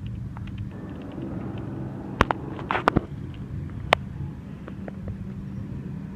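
A car engine idling with a steady low hum, with three sharp clicks a little over two, three and four seconds in.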